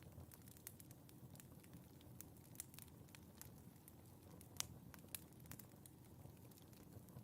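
Wood fire crackling in a fireplace: faint, irregular pops and snaps over a soft low rumble of the flames, with one sharper pop a little past halfway.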